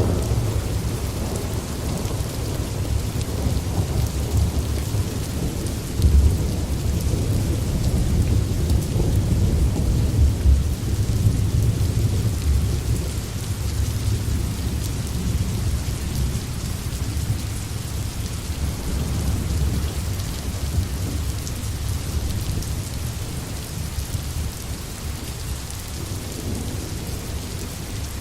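Steady forest rain hissing, with a deep rumble underneath that swells a couple of times in the first half and eases off toward the end.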